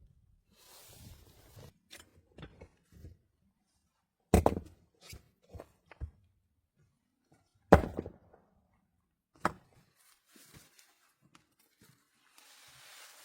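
Three sharp knocks, about 4 s, 8 s and 9.5 s in, with light clicks and rustling between them.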